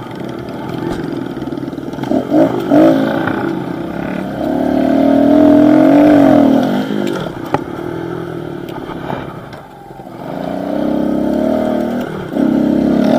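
Pit bike engine being ridden on a dirt track, its revs rising and falling as the throttle is worked. The engine is loudest a few seconds in, drops off to a lower note around two-thirds of the way through, then picks up again. There are a few sharp knocks along the way.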